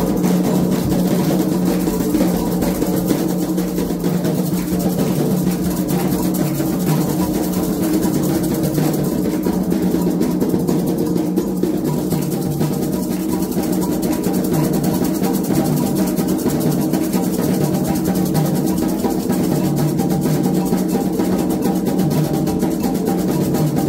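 Candomblé ritual drumming on atabaque hand drums: a fast, dense, unbroken rhythm over a steady low tone.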